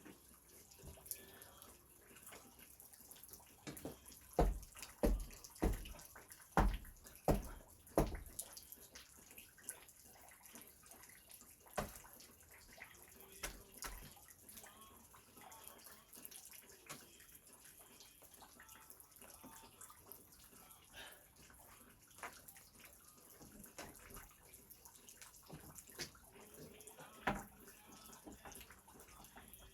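Irregular knocks and clatter of work, with a run of about six heavy thumps roughly half a second to a second apart about four to eight seconds in, over a faint steady hiss.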